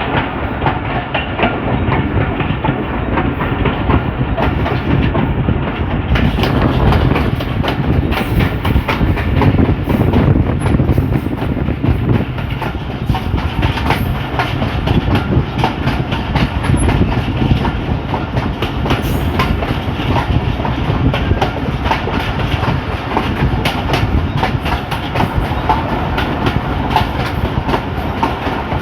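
Train hauled by an HBU20 diesel locomotive running along the track: a steady rumble with the wheels clattering over rail joints.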